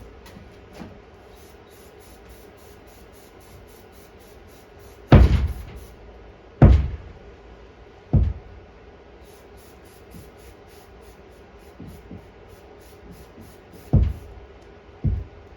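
About five separate knocks and clunks of hard objects handled on a work surface, the two loudest about five and six and a half seconds in, the others near eight and fourteen seconds and just before the end.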